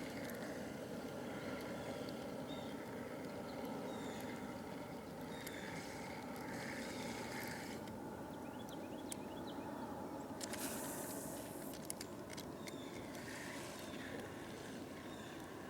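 Boat motor running steadily as the boat moves along.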